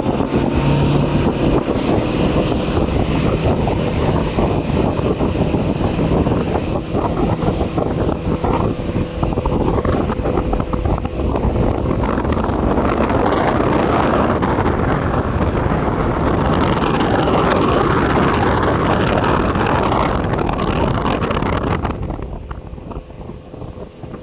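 Mercury 75 hp outboard, a 2.1-litre inline four, running hard as the boat speeds across the water, with heavy wind buffeting on the microphone. The sound drops away near the end.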